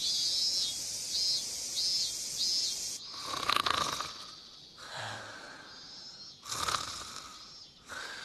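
Slow, heavy snoring-like breaths, one about every three seconds, after four short high chirps in the first three seconds.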